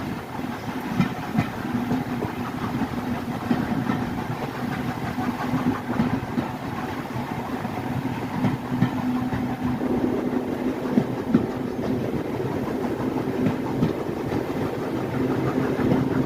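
Heritage railway train running along, heard from aboard a carriage: a steady rumble and hum with wheels clicking over the rail joints. The sound thickens a little about ten seconds in.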